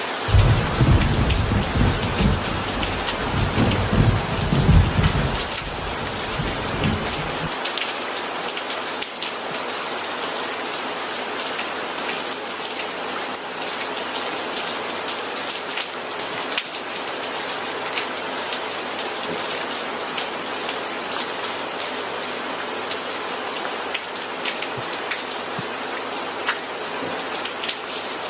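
Steady heavy rain hissing, with many small drop ticks. A deep rumble of thunder is heard for the first seven seconds or so and stops abruptly; after that only the rain goes on.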